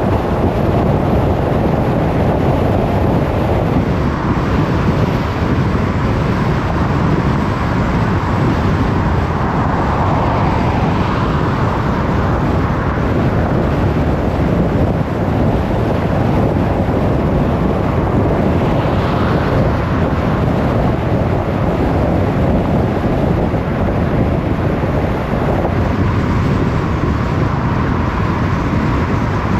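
Car driving along a road: steady road and tyre noise with wind, the rumble heaviest in the low end and the level even throughout.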